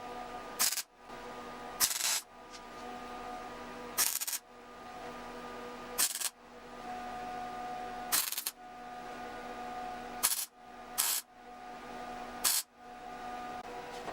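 A series of short tack welds on sheet steel, about eight brief crackling bursts spaced one to two seconds apart, with a steady electrical hum between them.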